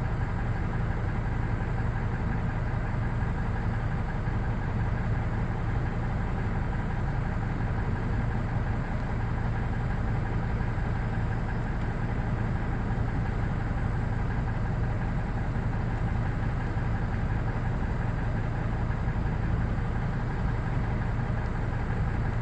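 Car engine idling steadily: a constant low hum with no change in pitch or level.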